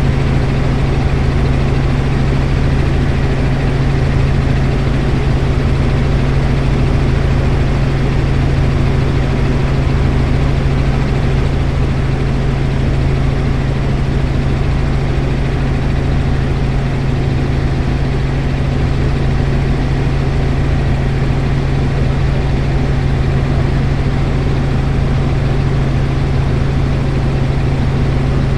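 Helicopter in flight: a loud, steady engine and rotor drone with a strong low hum.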